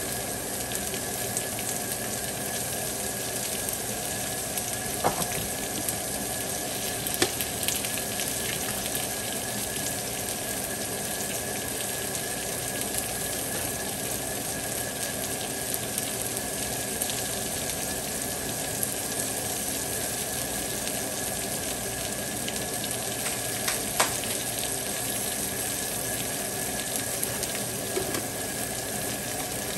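Cod fillets, red onion slices and green onions sizzling on a griddle: a steady frying crackle with a few sharp pops.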